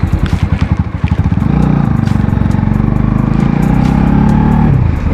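Motorcycle engine running, heard from the rider's own bike: a pulsing throb for about the first second, then a steady engine note that drops in pitch near the end.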